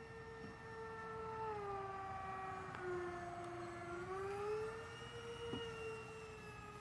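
Dynam Turbojet 550 RC model jet's electric ducted fans whining in flight. The pitch of the whine sinks about a second and a half in, then climbs back up near the middle.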